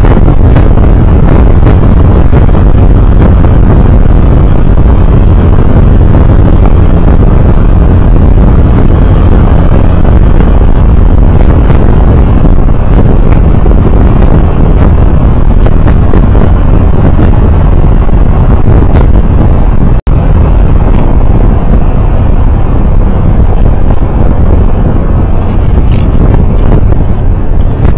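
Loud, steady rumble of a moving road vehicle with wind buffeting the microphone. It cuts out for an instant about twenty seconds in.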